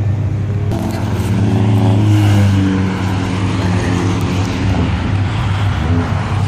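Car engine running close by with a steady low hum, swelling slightly about two seconds in.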